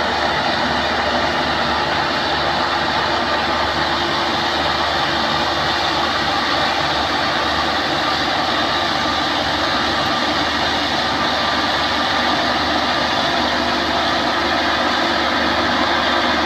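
Combine harvester engine running steadily at a constant speed, a loud, even machine noise with no change in pitch.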